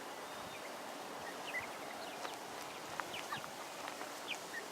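A flock of Cornish Cross broiler chicks peeping: scattered short, high peeps over a steady faint background hiss.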